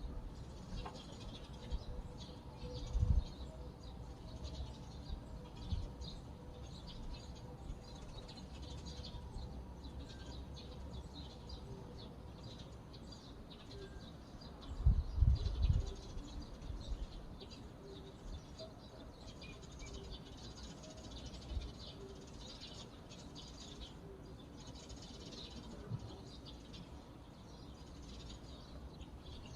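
Small songbirds chirping and twittering over a steady outdoor background. Two brief low rumbles stand out as the loudest moments: a short one about three seconds in and a longer one around the middle.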